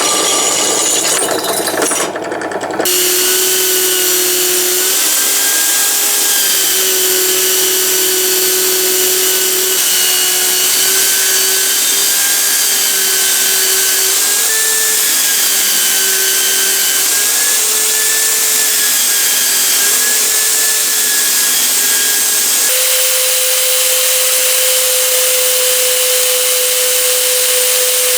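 A high-speed power tool running with a steady whine and a hiss above it, its pitch dipping and wavering slightly as it works. About three-quarters of the way through, the pitch steps up and then holds level. It is preceded in the first three seconds by a harsher, noisier stretch.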